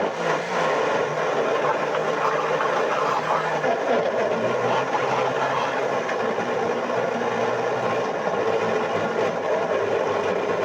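Electric kitchen blender running steadily at full speed, grinding cassava into a pulp.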